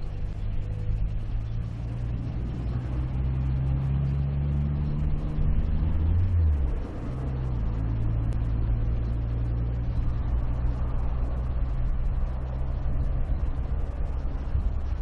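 An engine running steadily with a low hum, its pitch shifting briefly about six seconds in.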